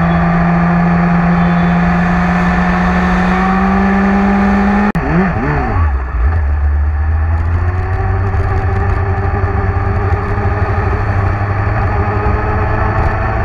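Motorcycle engine running under way, its drone rising slowly in pitch. About five seconds in it breaks off abruptly, the revs swing down and up, and it settles into a lower steady drone.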